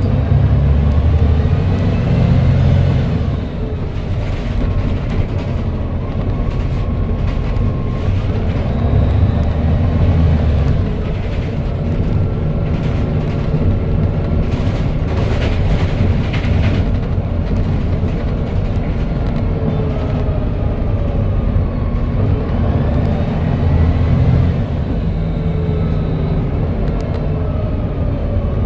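Volvo B7TL double-decker bus's turbocharged diesel engine and Voith automatic gearbox pulling through several accelerations, the engine note and a slight turbo whistle rising and then dropping at each gear change over a heavy low rumble. A run of light clicks and rattles comes through the middle.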